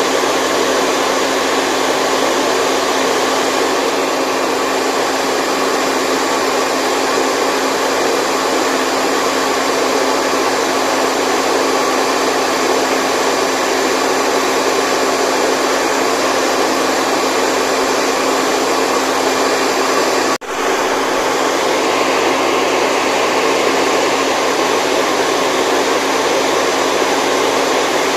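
Steady white noise, a continuous even hiss, with one brief dropout about twenty seconds in.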